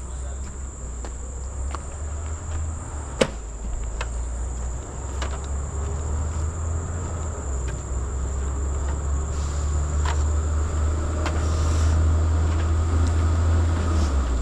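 Insects in tropical forest keep up a steady, high-pitched drone, over a low rumble that grows louder toward the end. Scattered sharp clicks break in, the loudest about three seconds in.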